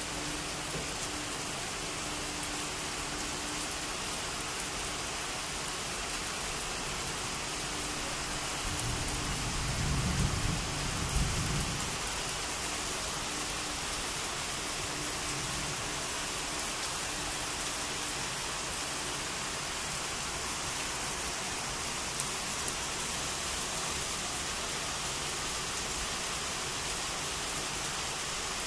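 Heavy rain pouring onto a wet platform, a steady hiss, with a low rumble of thunder about nine to twelve seconds in. A faint steady hum fades out partway through.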